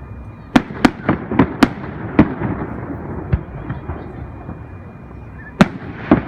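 Aerial fireworks shells bursting: a rapid run of sharp bangs in the first two seconds or so, then scattered single bangs, with a rumbling echo between them.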